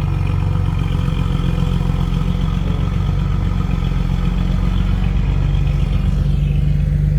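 Diesel dump truck engine running with a steady low drone, its pitch rising slightly a little past the middle.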